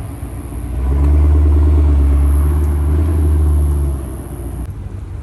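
Car or truck engine with loud exhaust held at a steady high rev for about three seconds, then dropping back to a lower, rougher running.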